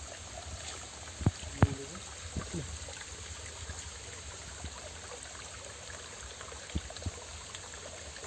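Steady rush of a flowing mountain stream, with a few sharp knocks about a second and a half in and again near the end.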